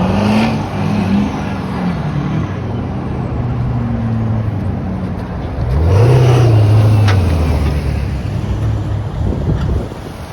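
Truck engines running as trucks drive past slowly, the engine note rising and falling; about six seconds in one accelerates, its engine louder for a few seconds before easing off.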